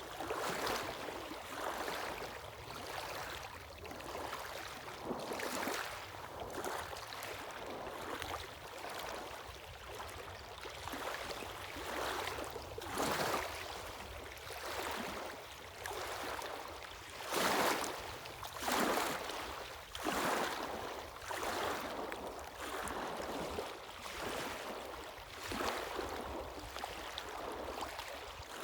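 Sea waves breaking and washing on the shore in repeated surges, one every second or two, the loudest a little past halfway.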